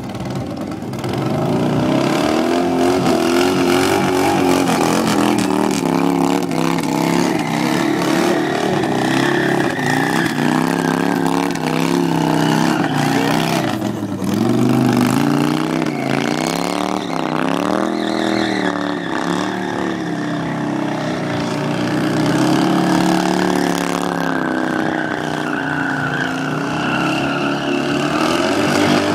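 Cruiser motorcycle engine revving up and down over and over as the bike is ridden in tight circles, its pitch rising and falling continuously.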